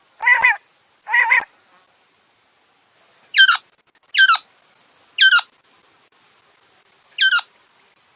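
Quail calling: two short, nasal, repeated calls, then after a pause four sharp calls that each sweep quickly downward in pitch, spaced about a second or more apart.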